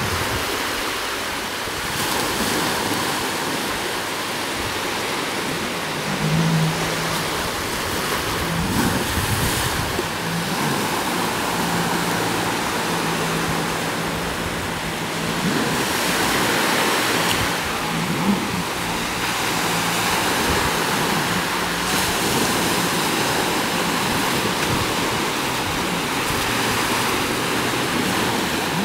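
Steady rush of water spray and wind noise, with the low, even drone of a jet ski engine running underneath for several seconds in the middle.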